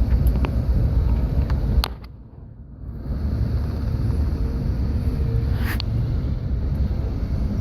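Steady low rumble of a moving passenger train, with wind buffeting the microphone and a few sharp clicks. The sound drops away suddenly for about a second, about two seconds in.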